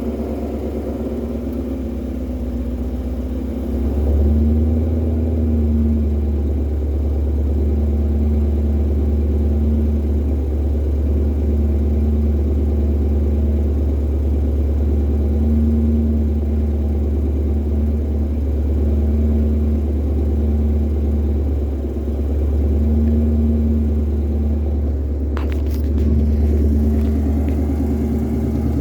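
Supercharged 5.2-litre V8 of a 2020 Shelby GT500, fitted with a Whipple supercharger, long-tube headers and a Borla exhaust, idling with a deep steady rumble; it gets louder about four seconds in and holds there.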